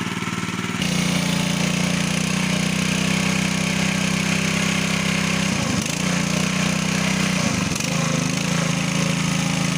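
Small petrol engine driving a water pump, running steadily. It gets louder about a second in, and its pitch dips briefly twice near the middle.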